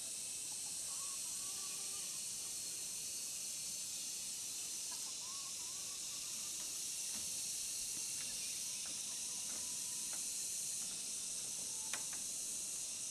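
Steady high-pitched drone of insects, with a few faint bird chirps and scattered light clicks, and one sharper click near the end.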